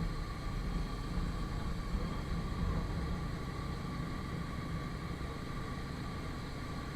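Motorcycle engine running steadily: a low rumble with a faint, steady higher tone above it.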